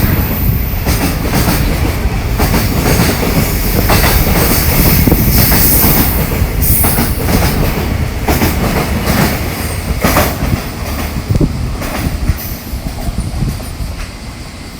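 Freight train rolling past, its wheels clacking over the rail joints, with some high-pitched wheel squeal. The sound fades over the last few seconds as the end of the train goes by.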